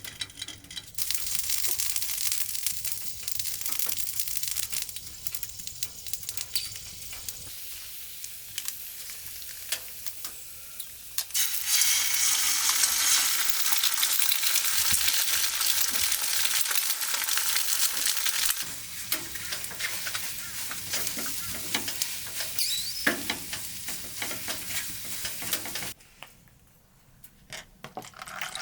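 Food sizzling and frying in a hot pan, with light clicks of stirring. The sizzle grows louder about 12 seconds in, eases about 19 seconds in, and stops a few seconds before the end.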